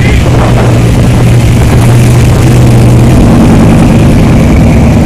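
Supercharged V8 of a 1957 Chevrolet idling loudly with a steady low note.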